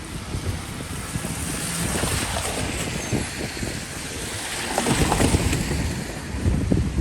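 Wind buffeting the microphone over a steady hiss of rain and outdoor noise, swelling louder about five seconds in.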